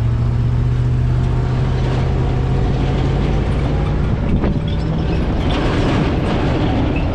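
Supercharged 5.4-litre V8 of an early-2000s Ford SVT Lightning pickup running at a steady cruise while towing a trailer, with road and tyre rumble. There is a small shift in the engine note about a third of the way in and a brief knock near the middle.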